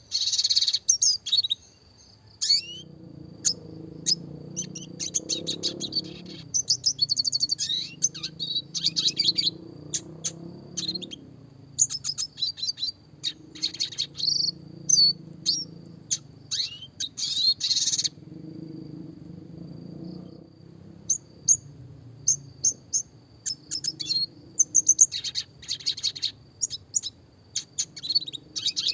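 Red siskin singing: bursts of fast rolling trills and sharp chirps, broken by a pause of about two seconds past the middle. A thin steady high whine runs under the song, and a faint low rumble sits beneath it.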